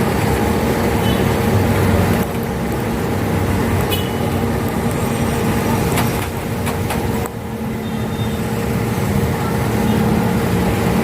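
Traffic on a busy road passing close by, with the engines of cars and larger vehicles running.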